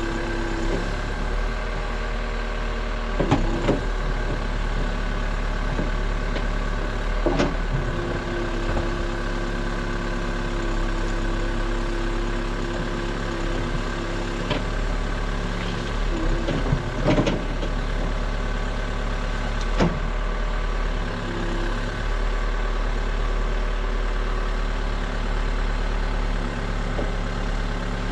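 New Holland backhoe loader's diesel engine running steadily, with a handful of sharp metallic clunks heard a few seconds apart.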